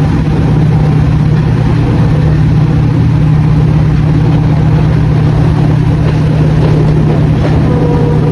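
Class 55 Deltic diesel locomotive's Napier Deltic engines running with a steady, loud drone and no change in pitch.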